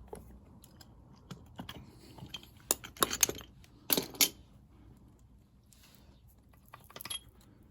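Sharp metallic clinks and rattles of tools and metal parts being handled, in clusters about three and four seconds in and again near the end.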